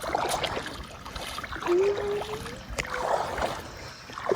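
Paddle strokes dipping and splashing in lake water from a stand-up paddleboard, with water sloshing around the board. A short thin tone rising in pitch sounds in the middle.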